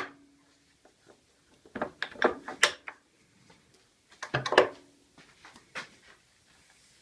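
Clusters of metallic knocks and clatters from lathe parts being handled, about two seconds in and again about four and a half seconds in, with a single knock shortly after. A brief low squeak sounds twice.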